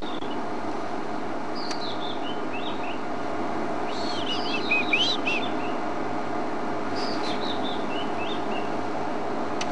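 A robin singing: three phrases of varied clear whistled notes, mostly falling in pitch, with the middle phrase the loudest. A steady low hum runs underneath.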